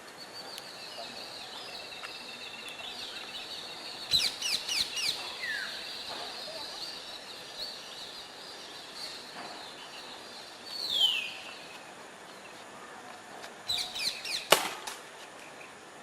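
Birds calling: two bursts of quick, falling chirps, one longer falling call, over a steady high-pitched tone, with a couple of sharp clicks.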